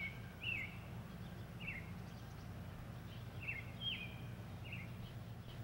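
Birds chirping: a scattered series of short, falling chirps, about eight in all, over a steady low hum.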